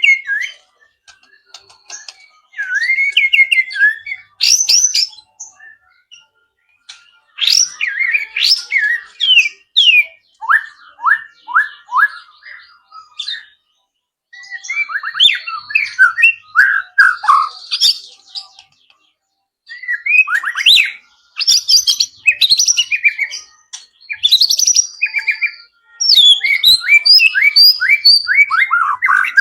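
White-rumped shama singing: loud, varied bouts of rapid whistles, trills and chirps a few seconds long, separated by short pauses. The song is packed with 'isian', phrases copied from other birds.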